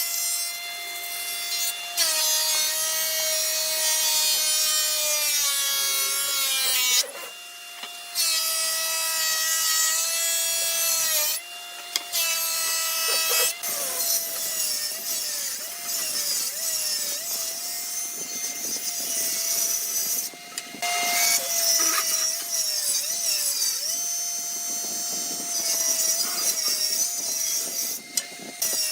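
Electric power saw running and cutting wood: a steady motor whine whose pitch sags as the blade is loaded in the cut and climbs back between cuts, with short breaks.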